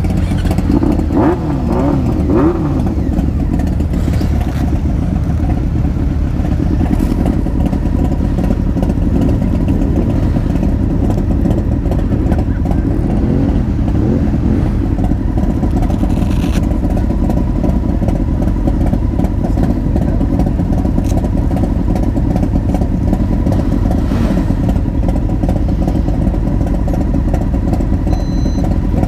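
Motorcycle engines running steadily. Brief revs rise and fall in the first few seconds and again about halfway through.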